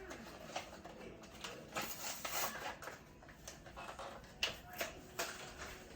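Scattered faint clicks and knocks, with a brief hiss about two seconds in.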